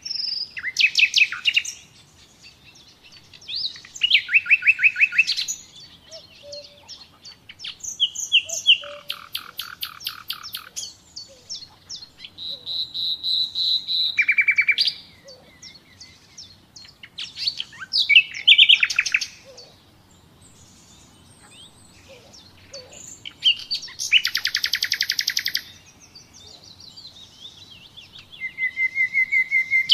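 Common nightingale singing: separate phrases of one to two seconds with pauses between, built of rapid repeated notes and a few drawn-out whistles.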